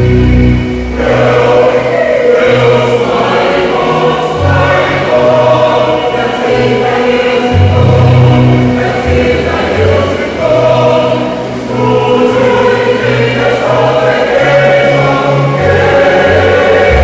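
A choir singing in sustained harmony, coming in about a second in over a low bass line that moves from note to note.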